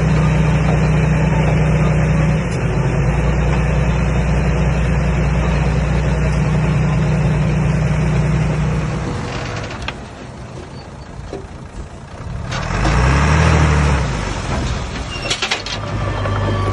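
Komatsu D21A bulldozer's diesel engine running steadily under load. About two-thirds of the way through it drops quieter, revs up and back down once, and after a few sharp clicks settles into a steady run again.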